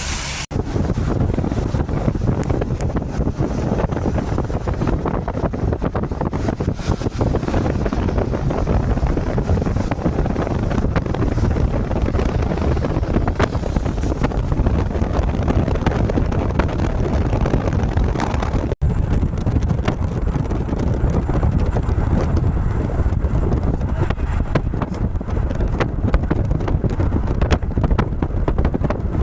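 Wind buffeting the microphone as a steady low rumble, mixed with vehicle noise on a flooded, rain-soaked road. The sound cuts out for a moment twice, shortly after the start and about two-thirds of the way through.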